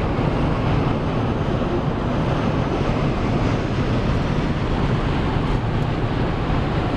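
Steady road noise inside a car cruising on the highway: tyre and wind rush with a low engine hum, unchanging throughout.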